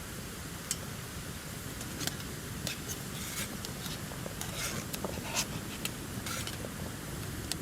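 Wood campfire crackling: about ten sharp, irregular pops and snaps over a steady low rush.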